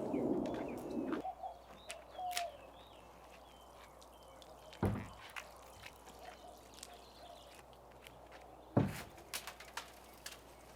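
Faint outdoor ambience with small birds chirping, scattered light clicks and two sharp knocks, one about five seconds in and one near nine seconds. A louder noise at the start stops about a second in.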